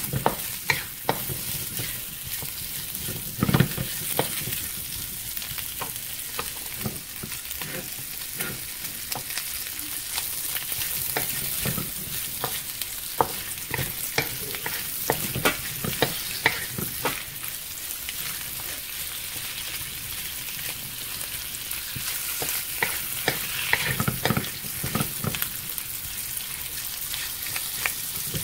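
Chopped pork belly frying in a pan with a steady high sizzle, while a wooden spatula stirs it, scraping and knocking against the pan at irregular moments.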